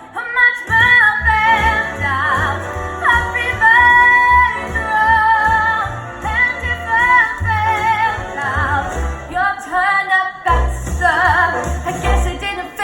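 A woman singing with vibrato over a backing track with a steady bass line.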